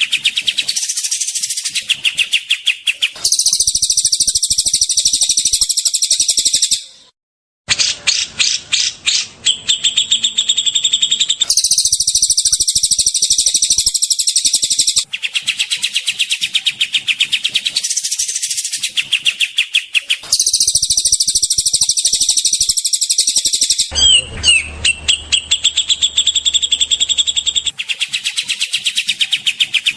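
Songbirds singing in rapid, dense, high-pitched chattering phrases, from spliced recordings that cut abruptly from one song segment to another every few seconds, with a brief dropout about seven seconds in.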